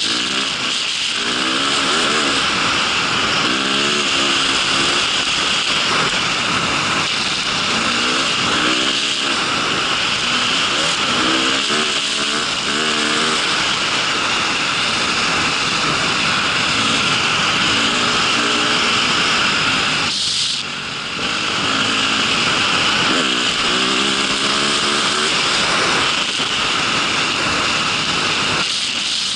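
A vehicle engine revving up again and again over a steady loud rush of wind and running noise, as heard riding along on the vehicle; the rush drops out briefly about two-thirds of the way through.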